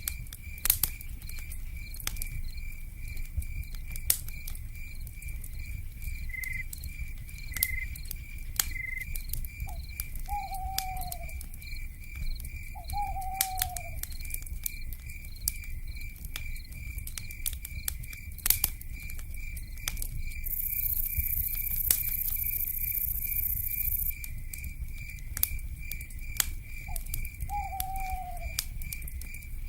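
Campfire crackling with frequent sharp pops over a low rumble, under a steady pulsing insect chirp of about three pulses a second. An owl gives two short falling hoots about ten seconds in and again near the end.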